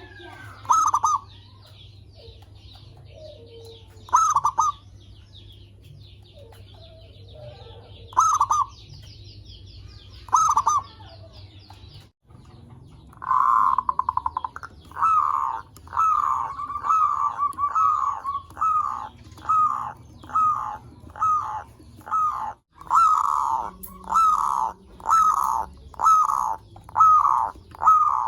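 Zebra dove (perkutut) cooing. First come short separate call phrases a few seconds apart, with faint high chirping behind them. After a brief break about halfway through, a steady run of repeated coos follows, a little more than one a second.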